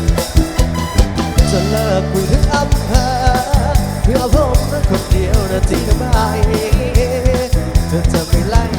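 Live band music: a drum kit beat with bass and a wavering lead melody line, an instrumental passage between sung lines of a Thai pop song.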